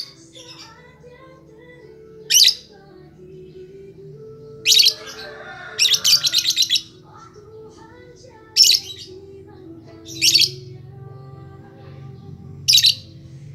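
Lovebird giving shrill chirps in short loud bursts about every two seconds, with one longer rapid chattering run near the middle, over background music with low sustained notes.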